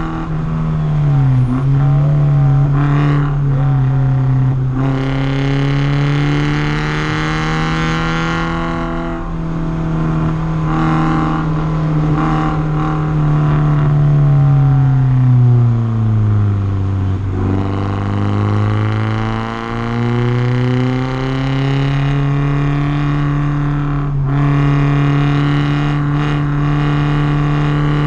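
Porsche 944's four-cylinder engine running hard on track, its pitch mostly high and steady. A slow drop to a much lower note and a climb back up in the middle show the car slowing for a corner and accelerating out of it.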